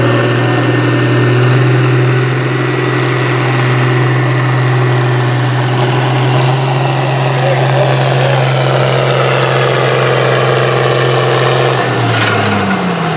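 Farm stock pulling tractor's diesel engine running hard and steady under load as it pulls the weight sled, with a thin high whine above it. About twelve seconds in the engine throttles down and its pitch falls away.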